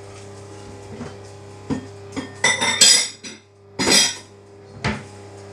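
Fidget spinners clinking and knocking against a bowl, a handful of sharp clattering strikes, the loudest around three and four seconds in.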